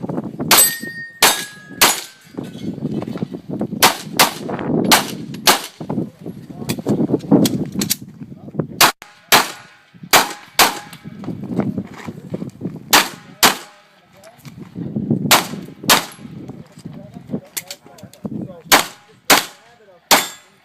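Pistol shots fired in quick, uneven strings with short pauses between them, some followed by the metallic ring of hit steel targets.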